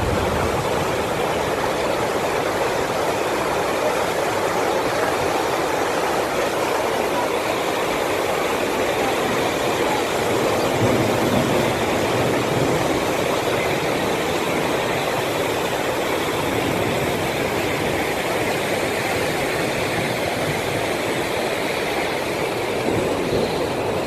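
Flash floodwater rushing steadily, an even, unbroken noise with no distinct pitch.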